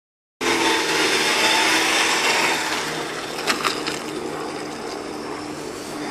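VW Golf Mk1 engine running hard as the car pulls away, loud for about two and a half seconds and then quieter as it moves off. Two short clicks about three and a half seconds in.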